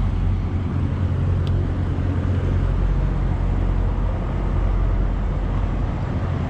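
Heavy truck's diesel engine idling: a steady low rumble.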